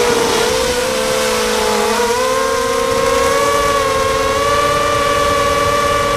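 Quadcopter's electric motors and propellers whining together at several close pitches; the pitch sags for the first two seconds, rises about two seconds in, then holds steady. Wind rumbles on the microphone underneath.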